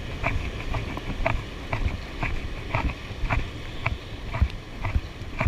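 Gusty wind rumbling on the microphone, with short sharp ticks about twice a second over it.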